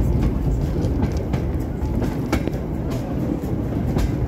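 Steam-hauled miniature passenger train running, heard from an open carriage: a steady rumble of the wheels on the track with sharp clicks about once a second.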